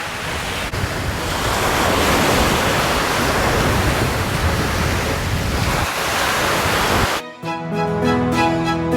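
Sea waves washing onto the beach, a swelling and easing surf with wind on the microphone. About seven seconds in it cuts off abruptly and background music with bowed strings begins.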